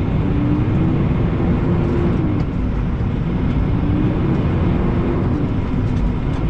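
Semi-truck diesel engine and road noise heard from inside the cab while driving: a steady low rumble with a faint engine tone that slowly rises and falls.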